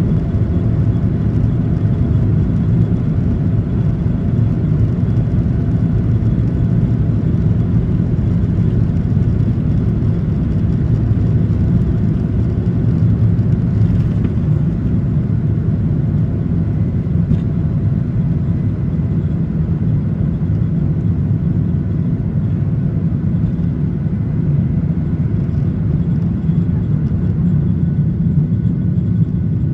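Steady low rumble of a Boeing 737-800's CFM56-7B jet engines and airframe heard from the passenger cabin, even in level throughout.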